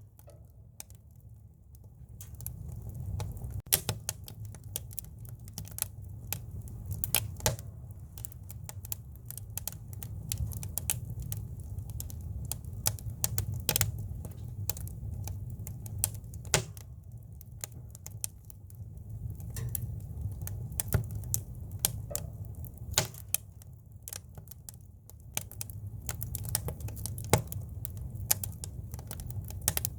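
Campfire of split firewood burning, with irregular sharp crackles and pops from the wood over a steady low rumble.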